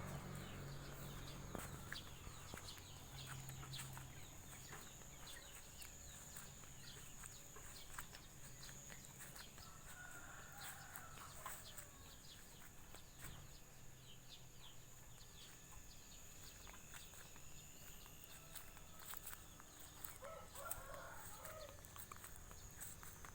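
Faint outdoor chorus of wild birds chirping over a steady high insect drone, with a domestic chicken calling twice, about halfway through and again near the end.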